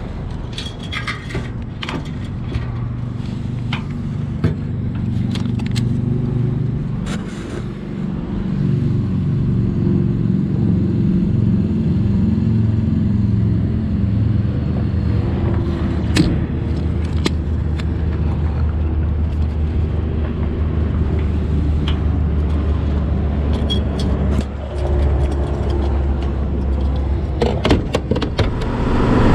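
Yamaha Super Ténéré XT1200Z's parallel-twin engine running on the move, its pitch shifting with the throttle and dipping briefly twice. Scattered short clicks and scrapes ride over it.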